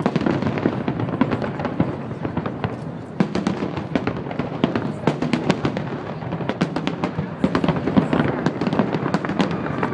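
Fireworks finale barrage: many aerial shells bursting in rapid succession, a dense, continuous stream of booms and crackles.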